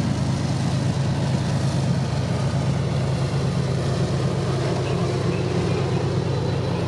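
Freight train rolling past with a steady low rumble and the rushing noise of wheels on rail.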